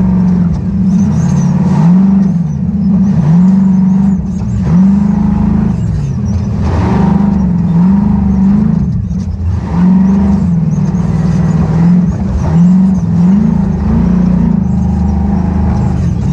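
Ultra4 off-road race car engine revving up and falling back over and over, its pitch climbing and dropping every second or two as the throttle is worked hard.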